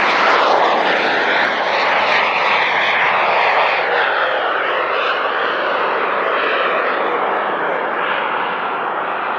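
Business jet's engines passing close by, a loud roar with a slowly shifting, whooshing tone that peaks early and gradually fades.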